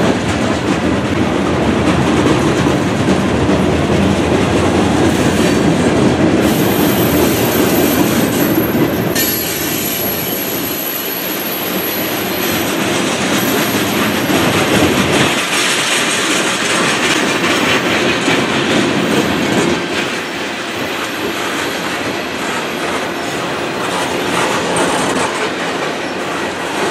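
Freight train cars rolling past at close range, a steady rumble of wheels on the rails. A thin, high wheel squeal comes in about six seconds in and again after about twenty seconds.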